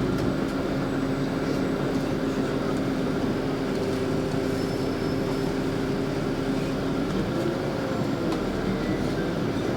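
Interior of a LiAZ 5292 city bus while driving: steady engine and drivetrain hum under road and tyre noise. The hum's pitch dips and rises again a little before the end.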